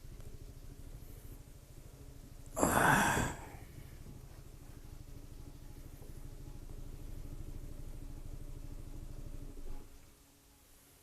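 Honda SH 300i scooter's single-cylinder engine idling with a steady low pulse, then switched off just before the end. A loud breathy rush, like a sigh, lasting under a second, about three seconds in.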